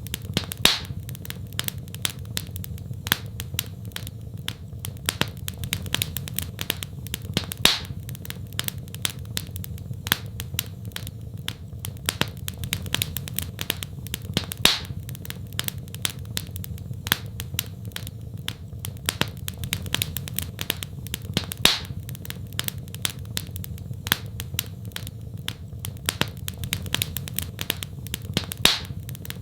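Wood fire in a fireplace crackling: a dense run of small pops and snaps over a steady low rumble, with a louder pop about every seven seconds.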